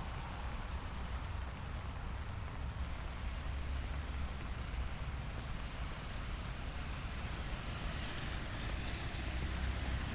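Steady light rain on a city street, with a low rumble of traffic underneath. The rain hiss swells briefly near the end.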